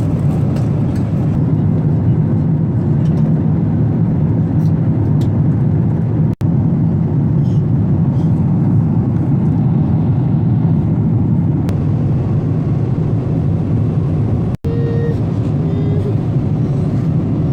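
Steady, loud rumble of a Boeing 777-200's engines and airflow heard inside the passenger cabin. The sound cuts out briefly twice.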